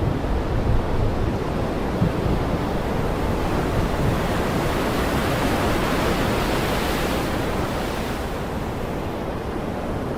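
Heavy rain falling steadily, a dense even hiss that grows a little brighter in the middle, with a low rumble underneath.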